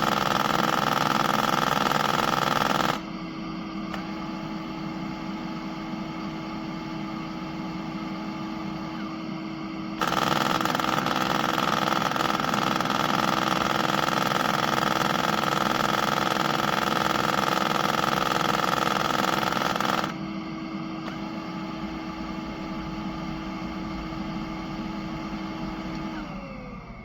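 Motor of an eufy Omni C20 robot vacuum and station running with a steady hum and whine. It steps between a louder and a quieter setting: loud for the first three seconds, quieter, loud again from about ten to twenty seconds, then quieter, winding down near the end.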